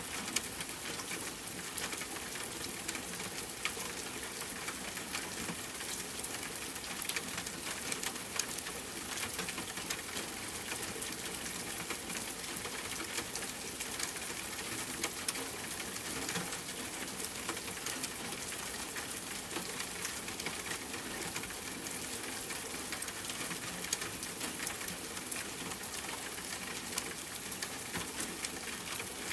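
Steady rain falling, a constant hiss full of sharp individual drop hits on a hard surface.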